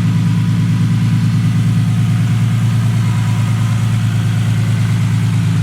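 Nissan 370Z's 3.7-litre V6 idling steadily with a loud, deep exhaust note.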